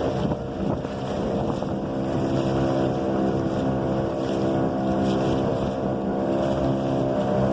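Speedboat engine running at a steady pitch.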